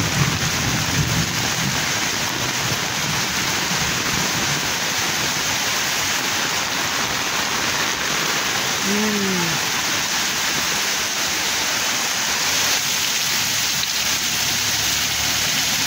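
Heavy rain pouring steadily onto a waterlogged street: a dense, even hiss of downpour.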